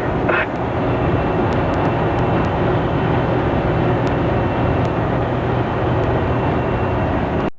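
Truck running at highway speed: steady engine drone with road noise, cutting off abruptly at the end.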